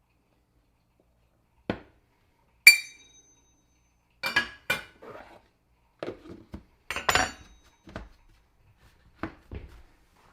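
Kitchen utensils and dishes clinking and clattering while baking ingredients are measured out: a knock, then a sharp ringing clink about two and a half seconds in, the loudest, then a run of irregular clatters and taps.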